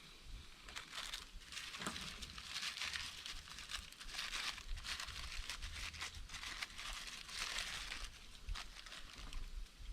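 Irregular rustling and crinkling, a string of short noisy bursts coming every fraction of a second.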